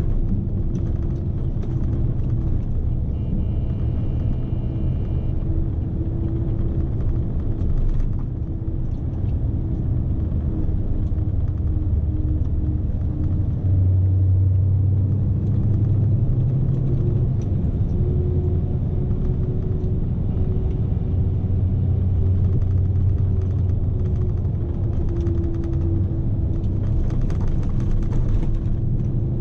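Scania S520 truck's V8 diesel engine running under way, heard inside the cab as a steady low rumble. Its pitch and load shift about fourteen seconds in.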